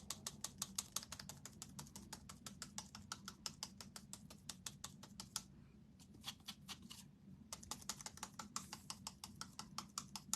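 Sponge dabbing paint onto a wooden craft star: quick taps, several a second, with two short pauses near the middle.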